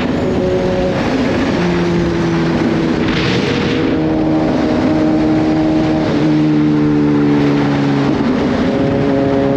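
Kawasaki Z H2's supercharged inline-four engine running at an easy cruise. Its pitch holds steady and then shifts in small steps up and down with the throttle, over a steady rush of wind and road noise. There is a brief louder hiss about three seconds in.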